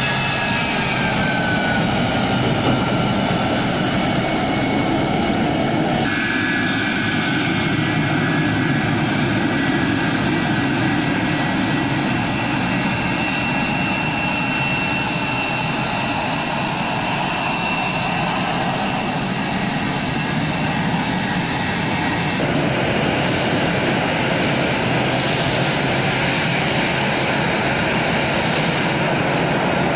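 Jet airliner engines running loud and steady: a broad rush with a high whine over it. The sound shifts abruptly twice, about six seconds in and about two-thirds of the way through.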